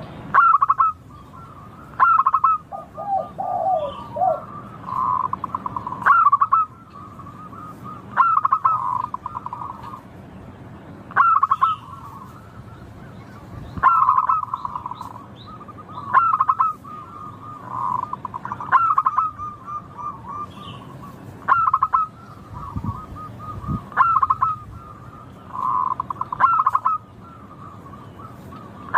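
Zebra dove (perkutut) cooing: a phrase repeated about every two seconds, each a sharp opening note running into a quick, rattling trill of coos at one pitch.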